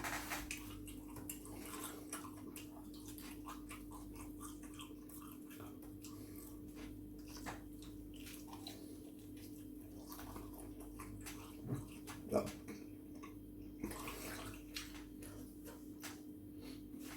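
Chewing and small wet mouth clicks of a person eating fried chicken, over a steady low hum, with two brief vocal sounds about twelve seconds in.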